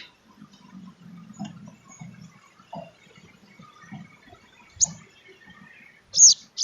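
Sogon trotol sunbird calling: faint scattered chips for the first few seconds, then a sharp high chirp about five seconds in and a loud, quick pair of high chirps near the end.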